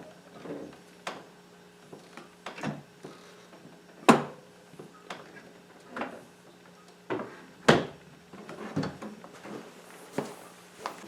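A series of about a dozen irregular knocks and clicks, like wood being handled, with two sharper, louder ones about four and eight seconds in.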